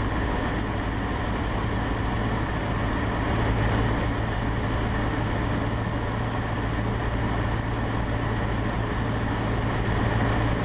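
Cabin noise of a Cessna 150 in flight: its Continental O-200 four-cylinder engine running steadily throttled back to about 1500 rpm for the descent, with a low, even drone under constant wind noise.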